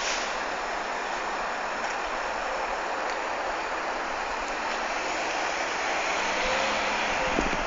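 Steady road and tyre noise from a car being driven, with a few short low thumps near the end.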